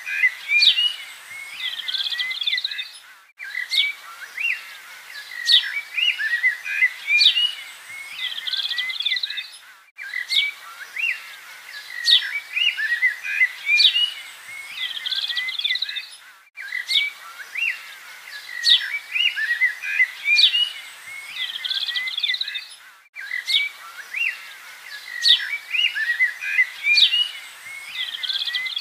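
Birdsong background track: a steady mix of chirps and whistles that repeats about every six and a half seconds, with a short break between repeats.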